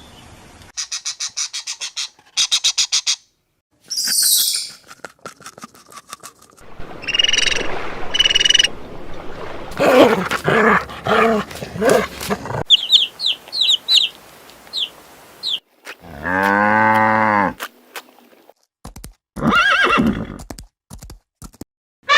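A series of short, different animal calls cut one after another with brief gaps, among them a run of quick high chirps and a long call with a rich, buzzy tone near the end.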